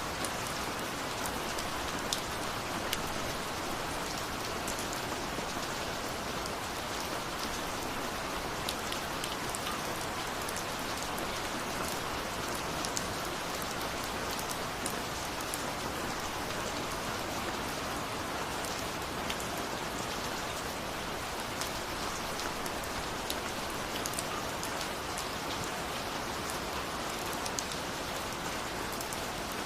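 Steady rain falling, a continuous hiss with scattered sharp drop ticks hitting a surface.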